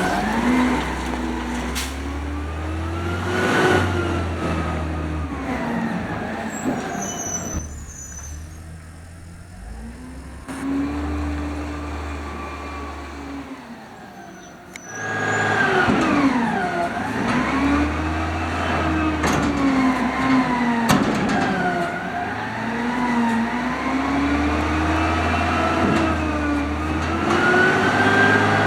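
Automated side-loader garbage truck's engine revving up and down repeatedly, with a few sharp knocks. It drops quieter for several seconds in the middle, then comes back up loudly.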